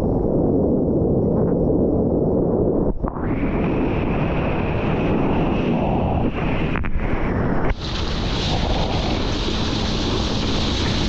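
Wind buffeting the microphone over rushing water while riding fast across the water behind a jet ski, with a few brief, abrupt breaks in the noise.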